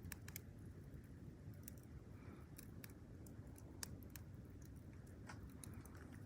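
Firewood fire in a stone hearth, crackling: irregular sharp pops and snaps over a faint low hiss.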